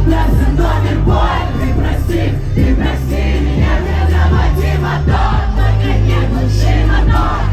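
Loud live band music with a crowd of fans singing and shouting along.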